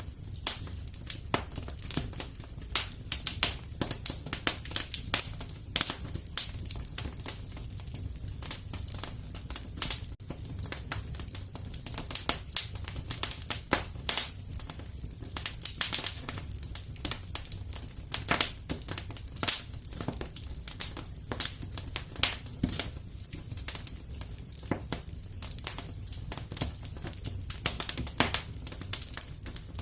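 Fire crackling in a fireplace: irregular sharp snaps and pops, several a second, over a steady low rumble.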